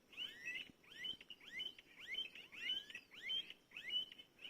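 Songbirds chirping in a tree full of birds: short rising chirps repeated about twice a second.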